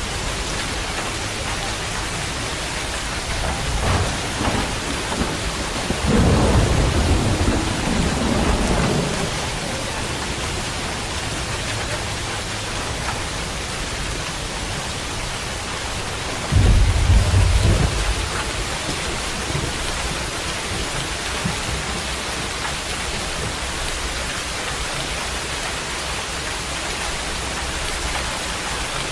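Steady heavy rain with thunder: a low rumble swells about four seconds in and rolls on for several seconds, then a sudden louder thunderclap comes about sixteen seconds in and dies away over a second or two.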